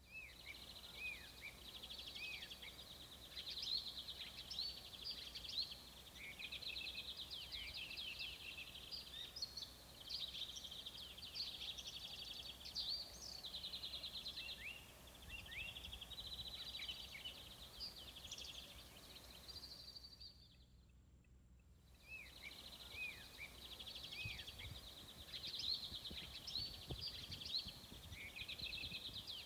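Several small songbirds singing and chirping together: quick high trills and short rising and falling chirps, overlapping without a break except for a gap of about a second and a half a little after two-thirds of the way through.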